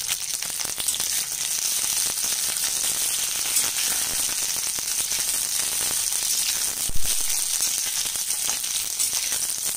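Chopped onions sizzling in hot refined oil in a pan: a steady hiss with fine crackles. There is a single knock about seven seconds in.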